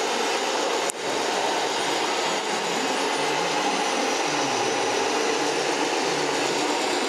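Steady mechanical running noise of radio-controlled model trucks, their electric motors and gearboxes whirring, with a wavering low hum and a brief break about a second in.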